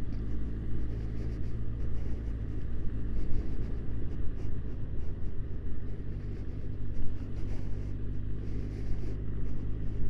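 Motorcycle engine running at a steady speed under a low, uneven rumble of wind and road noise.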